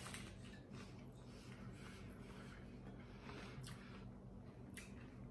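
Faint chewing on a bite of hard-shell taco, with a few separate crisp crunches, over a low steady hum.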